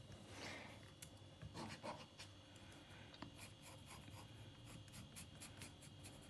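Pencil scratching faintly on paper in many quick short strokes, hatching random lines to shade part of a drawing.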